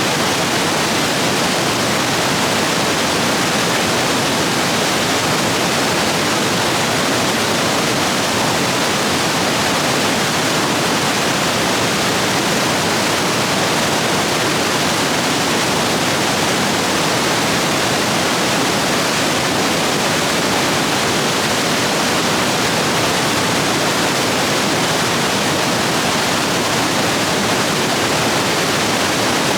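Rapids rushing steadily over rocks, swollen with heavy rain: a loud, even roar of white water.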